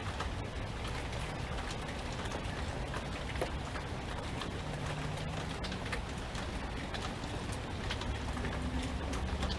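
Steady rain falling, with many sharp ticks of single drops striking, over a constant low rumble.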